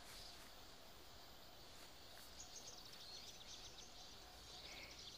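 Quiet outdoor ambience with small birds twittering faintly, a run of quick high chirps starting about halfway through.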